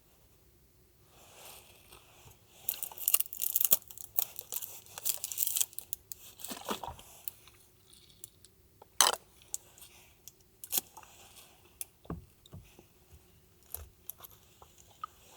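Close handling noises: a few seconds of dense crinkling and rustling, like plastic or packaging being worked, then scattered separate clicks and knocks.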